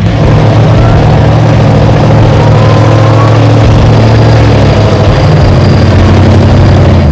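Chevy 454 big-block V8 truck engine running steadily at a low, loud idle, with a faint rising whine about two seconds in.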